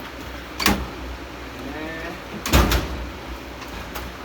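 Metal tool chest drawers being opened and shut: a sharp clunk under a second in, then a louder clatter of several knocks near the middle.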